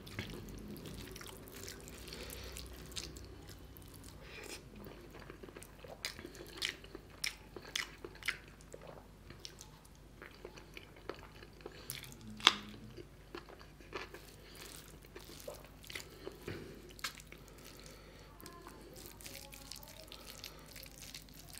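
Close-miked wet chewing and lip smacks of a person eating rice with chicken gizzard curry and egg curry by hand, with soft squelching as fingers mix rice and curry on the plate. Many short clicks and smacks come irregularly, and one sharp, loud click about twelve seconds in stands out above the rest.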